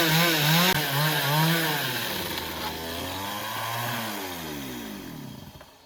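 Two-stroke chainsaw running at high revs, its pitch wavering as it works. About two seconds in, the pitch drops and the sound fades out toward the end.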